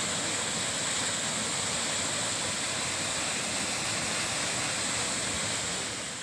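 Waterfall water rushing in a steady, even hiss, which drops away sharply near the end.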